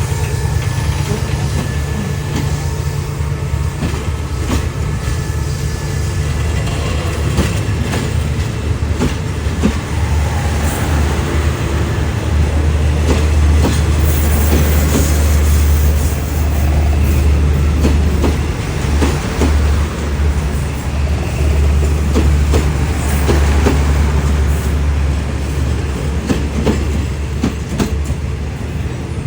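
State Railway of Thailand train running close by: a heavy, steady low rumble with wheels clicking over the rail joints, loudest through the middle.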